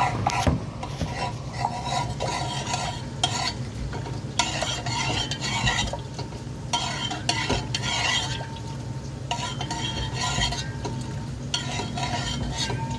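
Food frying and sizzling in a pan while a spoon stirs it, scraping the pan in repeated strokes, as turmeric is stirred in. A steady low hum runs underneath.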